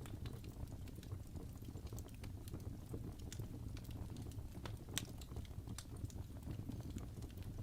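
Wood fire burning in a fireplace: a steady low roar of the flames with irregular sharp crackles and pops, a few louder pops about midway.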